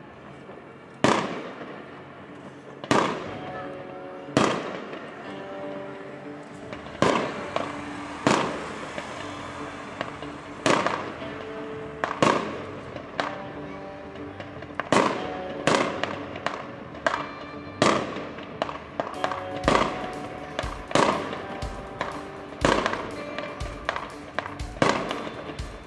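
Aerial fireworks bursting: sharp bangs about every one to two seconds, each trailing off, coming faster and heavier in the second half, over background music.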